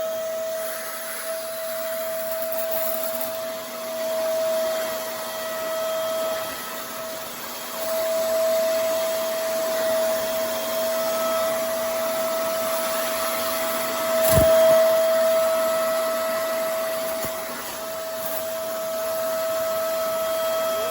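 Vacmaster SCA0801 carpet spot cleaner's suction motor running steadily: a rushing noise with a steady whine. There is one sharp knock about two thirds of the way through.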